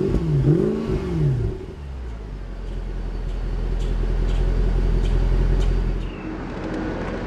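2008 Mercedes-Benz E63 AMG's 6.2-litre V8 revved through its quad exhaust while standing still: the revs fall from one blip, rise and fall once more, then settle into a deep, steady idle.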